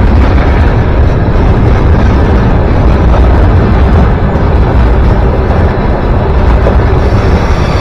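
A train passing close by, its loud steady rumble dominated by deep low noise.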